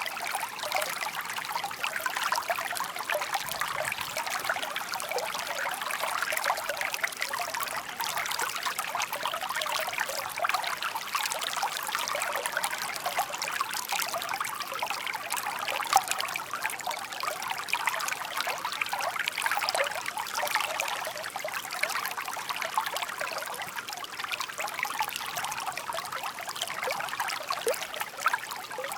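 Shallow stream babbling and trickling steadily over stones, a continuous rush with many small splashes.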